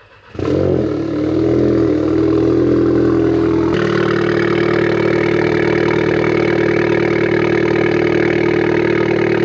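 Cold start of a Volkswagen Golf GTI Mk7's turbocharged 2.0-litre four-cylinder with an aftermarket downpipe and catback exhaust. It catches about half a second in with a brief flare of revs, then settles into a steady fast idle, and its tone changes abruptly a little under four seconds in.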